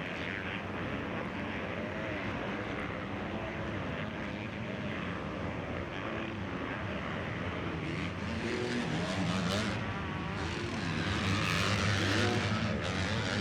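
Several motocross bike engines racing, their revs rising and falling through gear changes and throttle work. The sound grows louder past the halfway point as bikes come closer.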